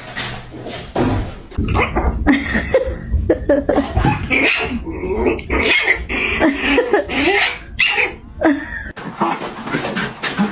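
A dog vocalizing in a rapid run of short, pitched calls that bend up and down in pitch, quieter again near the end.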